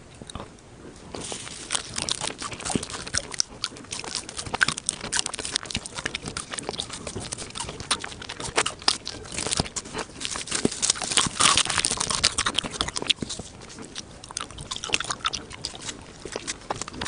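Close-miked chewing of candy: a dense run of crisp crunching and sticky mouth clicks that starts about a second in and keeps going.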